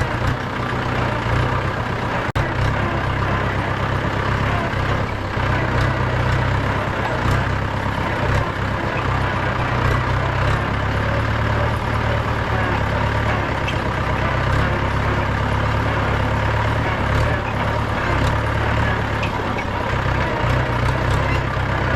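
Mahindra 475 DI tractor's four-cylinder 2730 cc diesel engine running steadily under way, with a sharp click about two seconds in.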